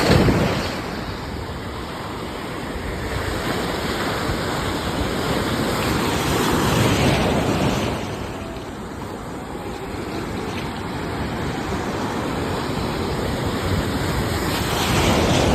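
Ocean waves breaking on the shore, one surge about every seven or eight seconds (near the start, about halfway, and near the end), with a steady wash of surf in between.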